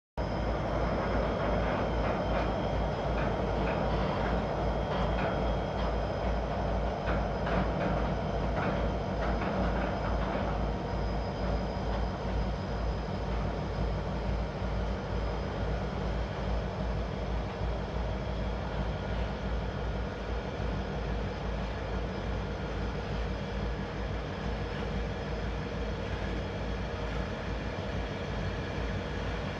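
Two diesel locomotives hauling a narrow-gauge ore train, a steady engine drone with thin whining tones on top. Some clattering comes through in the first ten seconds or so.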